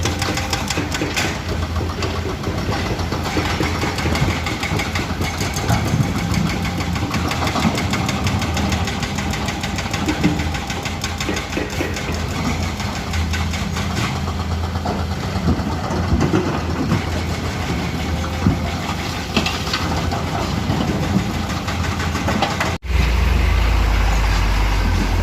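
Diesel engines of hydraulic excavators running steadily while loading, with scattered knocks and clanks. Near the end the sound drops out for a moment and comes back as a louder, deeper engine rumble.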